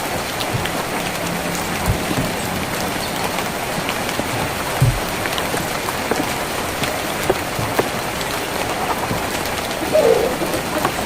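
Steady rain falling on a tin roof: an even hiss with scattered louder drop ticks and a low thud about halfway through.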